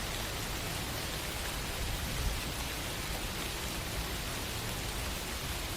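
A steady, even hiss of background noise with a faint low rumble underneath.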